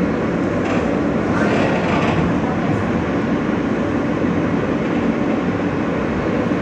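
Steady running noise inside an R160 New York City subway car in motion: a continuous rumble of wheels on rail with the car's running gear.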